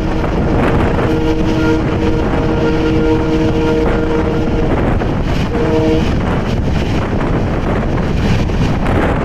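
Train running at speed past a container freight train on the next track: a loud, steady rush of wheels and wind. Over it, a train horn sounds one long blast of about five seconds from the start, then a short second blast about a second later.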